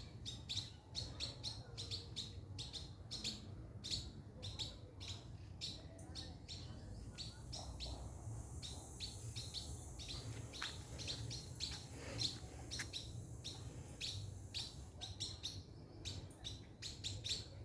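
Small birds chirping in quick, dense short calls, several a second, over a steady low rumble.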